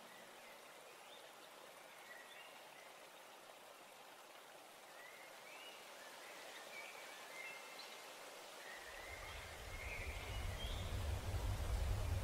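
Quiet nature ambience on the backing track: a steady, water-like hiss with faint short chirps, and a low rumble that comes in about nine seconds in and grows louder.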